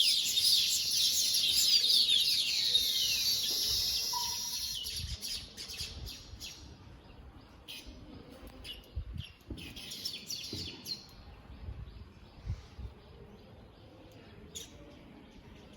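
Small birds chirping and twittering in a dense chorus for the first four or five seconds, thinning out to scattered calls with a few faint low knocks.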